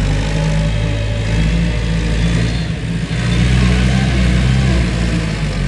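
Tractor engine running steadily, with a louder hissing rush coming in about halfway through.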